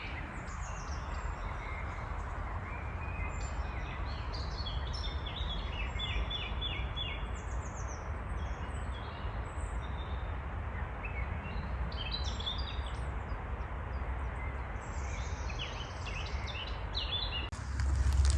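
Several small songbirds singing and calling in short chirps and quick runs of notes over a steady background hiss. Footsteps start up again near the end.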